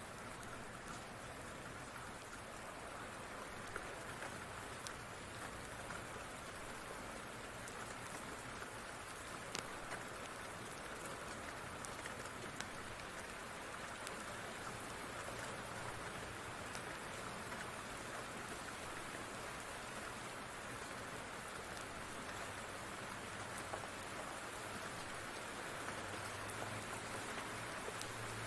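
Steady rain falling, with scattered light drop ticks. A low rumble swells near the end.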